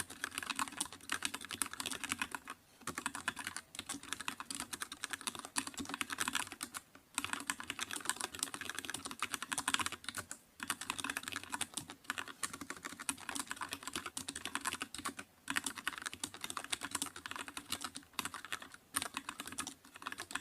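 Computer keyboard being typed on quickly and steadily, a dense run of key clicks broken by brief pauses every few seconds.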